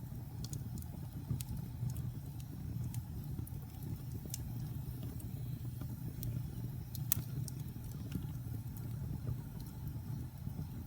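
Wood fire in a fireplace crackling: irregular sharp pops over a steady low rumble, with one louder pop about seven seconds in.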